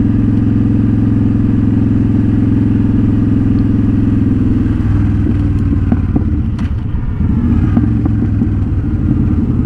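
Honda Shadow Spirit 750 V-twin engine running under way, steady for about five seconds, then its note drops lower and turns uneven.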